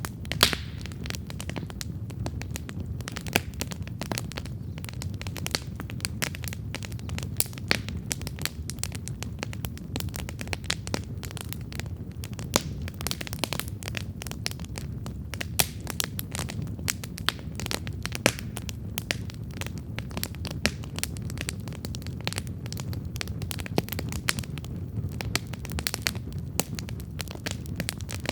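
Wood campfire burning with a steady low rumble of flame and constant crackling, broken by frequent sharp pops.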